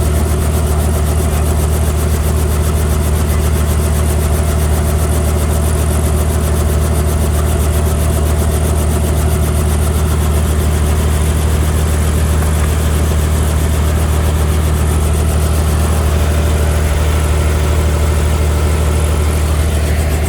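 Helicopter engine and rotor running steadily: a loud, even low drone with a fast, regular beat from the rotor blades.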